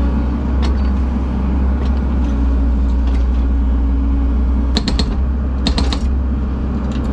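Engine of a heavy machine running steadily, with two short bursts of metallic clanking and creaking about five and six seconds in, as concrete is broken up and moved.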